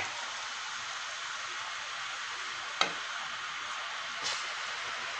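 Freshly added murukku deep-frying in hot oil: a steady sizzle, with a sharp click about three seconds in and a softer knock about a second later.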